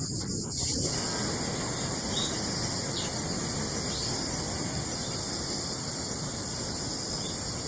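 Steady high-pitched insect chorus with a few short, faint bird chirps scattered through it, over a low outdoor background hiss.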